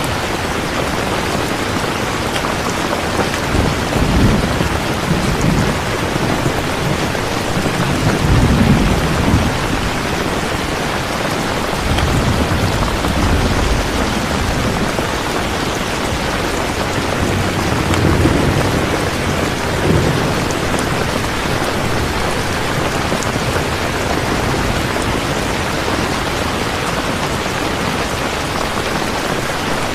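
Steady heavy rain with low rolls of thunder rumbling up several times, around 4, 9, 13 and 19 seconds in.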